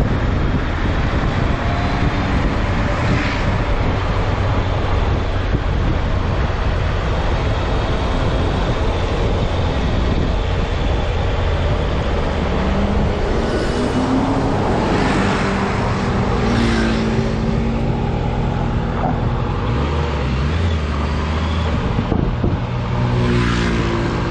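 Honda CB650F inline-four motorcycle engine running on the road under heavy wind noise on the microphone. In the second half the engine note comes through more clearly, rising and falling with the throttle.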